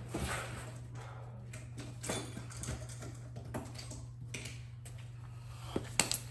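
Hand tools and metal parts being handled during disassembly of a paint sprayer: scattered light clicks and knocks, with a sharper click near the end, over a steady low hum.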